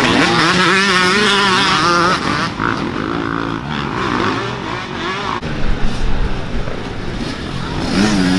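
Off-road motorcycle engines revving in the race, their pitch rising and falling as the riders throttle on and off.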